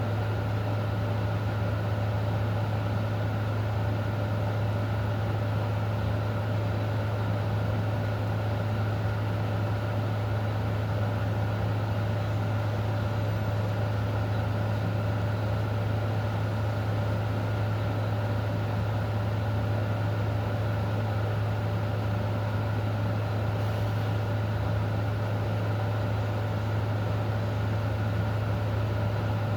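A steady, unchanging low mechanical hum over an even hiss that fits falling rain.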